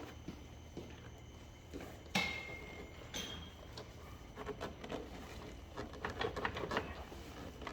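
Metal parts and hand tools clinking and knocking on a hard surface: two sharper metallic clinks ring briefly about two and three seconds in, followed by a run of small rattling taps, over a steady low hum.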